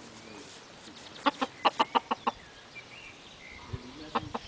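Domestic chickens clucking: a quick run of about seven short clucks a second or so in, then a few more near the end.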